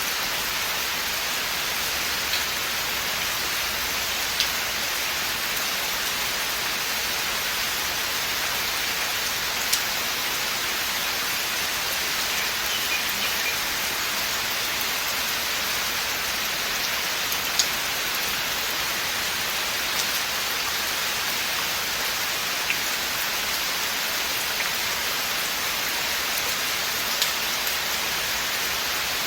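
Steady rain falling in a forest, an even hiss with now and then a single louder drop ticking close by.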